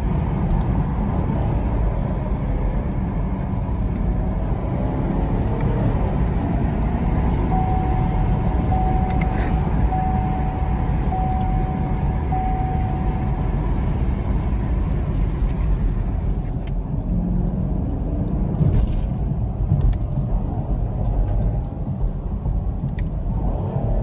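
2019 Chevrolet Camaro SS's 6.2-litre V8 running through its stock exhaust while driving and downshifting, a steady low drone heard from inside the car. Near the middle, a short electronic tone beeps five times.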